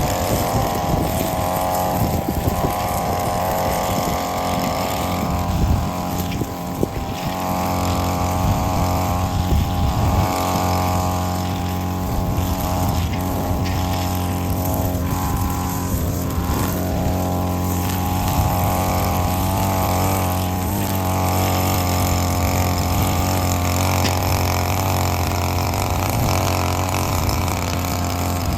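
Petrol lawn mower engine running steadily throughout, its pitch wavering slightly at times.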